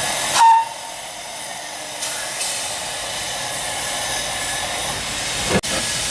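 Steam locomotive standing with a steady hiss of steam. A brief, loud high note sounds about half a second in, and there is a sharp click near the end.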